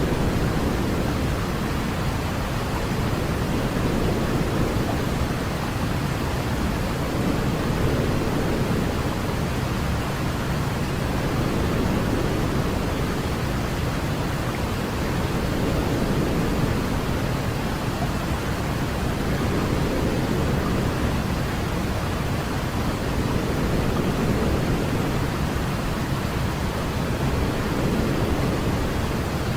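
Continuous white noise, weighted toward the low end like pink noise, with soft swells about every four seconds.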